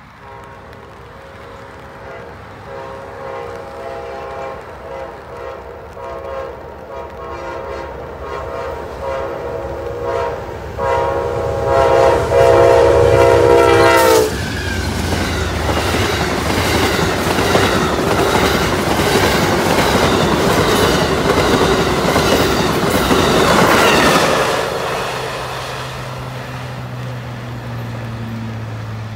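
Amtrak GE P42DC diesel locomotive sounding its multi-chime horn in a series of blasts as it approaches, the chord dropping in pitch as the engine passes. Then the train rushes by with loud wheel and rail rumble and clickety-clack for about ten seconds, fading as it moves away.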